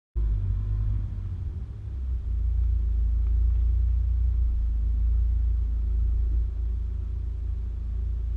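Four-wheel-drive vehicle running, a steady low rumble that cuts in abruptly just after the start.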